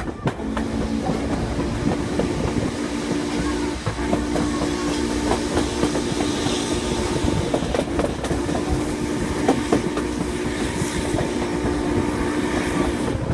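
Passenger train car rolling along the track at speed, wheels clicking over rail joints over a constant rumble, with a steady low hum that drops out briefly twice.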